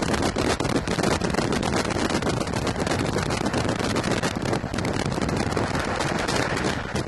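Train ride heard through an open window: heavy wind rush buffeting the microphone over a fast, dense rattle and clatter of wheels on the track. The noise eases a little near the end.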